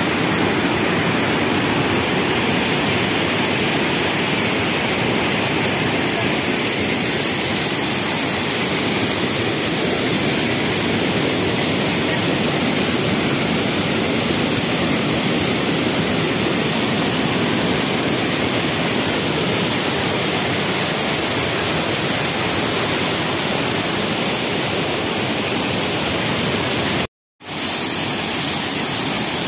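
Waterfall in full flow after rain, its water rushing in a loud, steady, even roar. The sound cuts out completely for a moment near the end.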